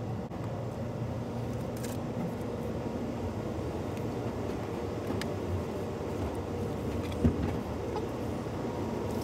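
Steady low hum of a car's engine idling, heard from inside the cabin, with faint ticks and one soft thump about seven seconds in.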